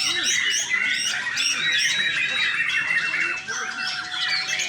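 Several caged white-rumped shamas (murai batu) singing at once, a dense overlapping stream of loud whistles, chirps and trills with no pause.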